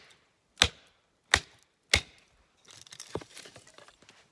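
Chopping firewood: three sharp strikes of a hatchet blade into a log, about two-thirds of a second apart. Near the end come softer scattered crackles and rustles with one lighter knock.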